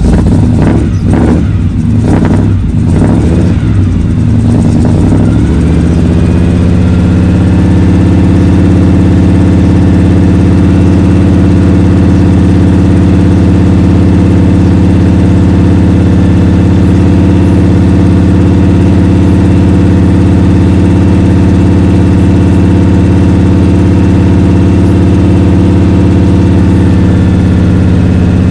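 1984 Chevrolet K5 Blazer's big-block V8 running unevenly for the first few seconds, then settling into a steady, loud idle about five seconds in, on a cold start.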